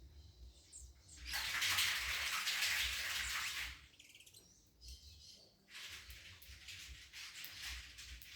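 Wild birds calling: a loud, harsh, rasping burst lasting about two and a half seconds, starting about a second in, then a fainter stretch of similar rasping near the end.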